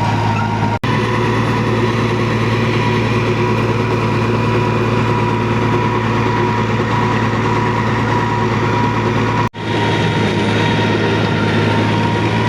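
Tractor diesel engine running steadily at a constant speed. The sound drops out for an instant twice, about a second in and about nine and a half seconds in.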